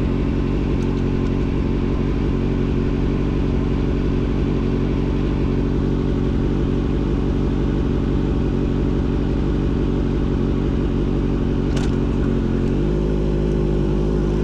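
Motorcycle engine running steadily at constant revs, its pitch stepping up slightly near the end.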